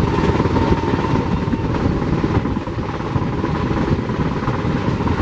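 Indian Railways express train running at speed, heard from inside a sleeper-class coach: a loud, steady rumble and rush of wheels on rails and wind. A faint steady high tone sits over it for the first couple of seconds.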